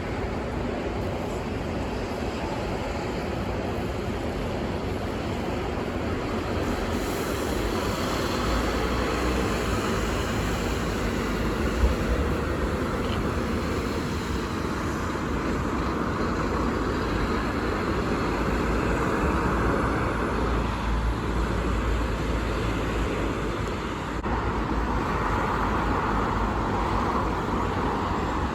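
City bus engines running amid road traffic, a steady rumble that grows louder about seven seconds in, with a single short knock about twelve seconds in.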